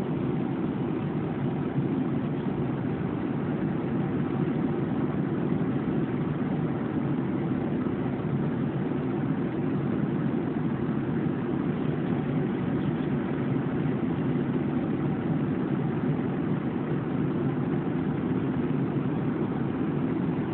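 Steady drone of an airliner cabin in flight: engine and airflow noise heard from inside the passenger cabin, deep and even throughout.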